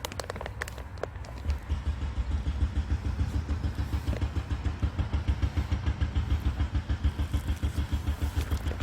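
A few light metal clinks, then from about a second and a half in an engine runs with a steady, even low pulse of several beats a second.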